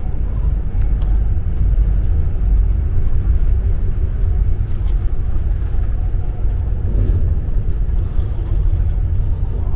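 Steady low rumble of an Avanti West Coast express train running at speed, heard from inside the carriage.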